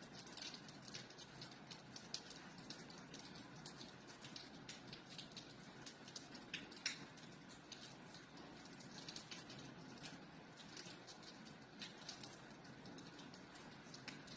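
Gentle rain: a soft steady hiss with scattered drops tapping irregularly, one drop louder about halfway through.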